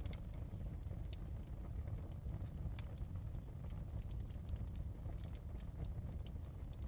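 Wood fire crackling: irregular sharp pops and snaps, some close together and some spaced out, over a steady low rumble of the burning fire.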